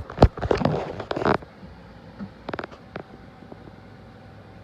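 Handling clatter while a tape measure is laid across a plastic battery box: a quick run of sharp clicks and rattling in the first second and a half, then a few lighter clicks about two and a half to three seconds in.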